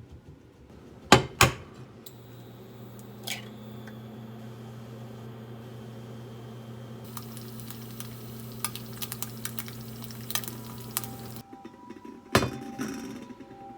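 Kitchen clatter: two sharp knocks of dishes or utensils about a second in, then a steady low appliance hum with scattered light clicks and hiss. The hum cuts off suddenly, and another sharp knock follows about a second later.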